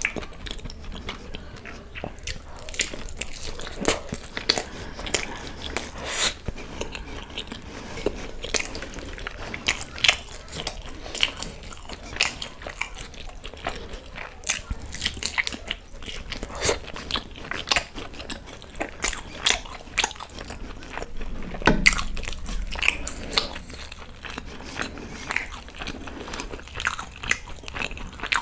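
Close-miked mouth sounds of a person eating chicken manchurian with fried rice by hand: biting and chewing with lip smacks, heard as many short, irregular clicks, with one louder mouth sound about two-thirds of the way through.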